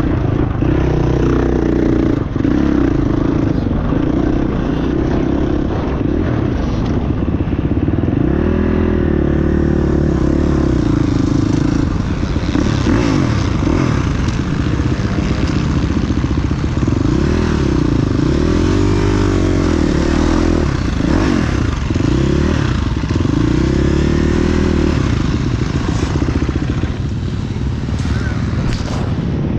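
Several motocross dirt bikes running on the track at once, their engines revving up and down through the gears and passing by.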